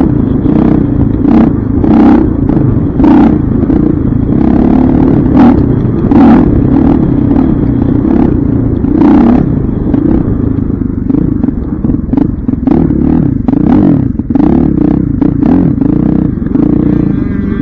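Dirt bike engine running loud under throttle, its pitch rising and falling as the rider speeds up and backs off, with repeated clattering knocks.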